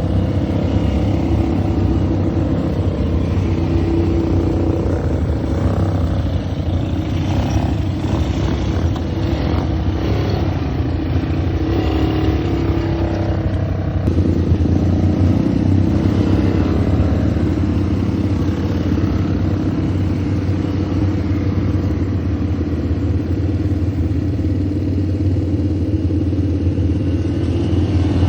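ATV engine running steadily under way, with its note shifting about halfway through.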